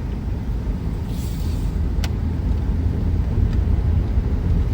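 Car driving, a steady low rumble of engine and road noise, with a single sharp click about two seconds in.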